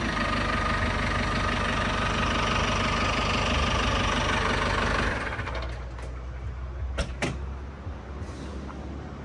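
An engine running steadily, which cuts off abruptly about five seconds in, leaving a low hum. About two seconds later come two sharp knocks a quarter of a second apart.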